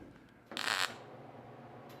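A MIG welder laying one short tack weld on sheet metal: a single brief crackling hiss about half a second in.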